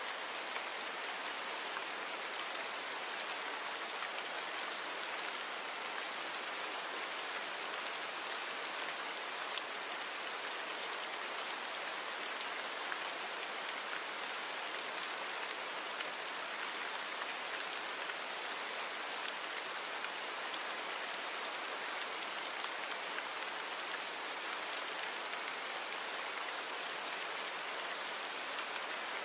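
Steady rain falling: an even hiss with faint scattered drop ticks and little low rumble, a natural rain recording with its background noise reduced.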